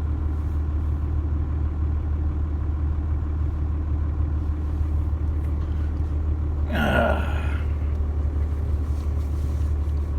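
Dodge pickup truck's engine running with a steady low drone, heard from inside the cab, with a brief higher-pitched sound about seven seconds in.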